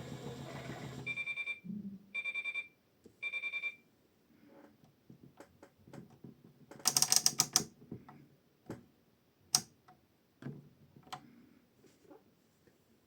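A toy Bosch washing machine's motor hum stops about a second in. Its beeper then sounds three short groups of rapid high beeps, the machine's end-of-programme signal. Scattered clicks and one brief loud rattling clatter follow.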